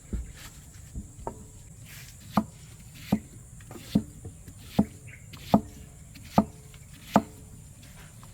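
Knife chopping on a cutting board: a couple of light taps, then seven sharp, even chops about one every 0.8 seconds.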